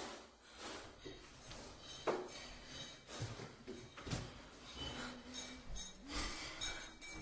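Irregular knocks, clicks and rubbing of hard objects being handled, with a few short ringing clinks; a sharper knock about two seconds in and another about four seconds in.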